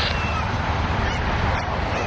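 Steady jet engine noise of a Boeing 787-10 climbing out after takeoff, heavy in the low rumble.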